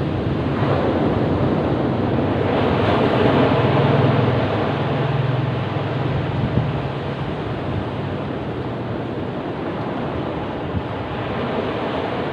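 Ocean waves breaking and washing up a beach in a continuous rumbling surf, one wave swelling loudest about three to four seconds in and then easing off.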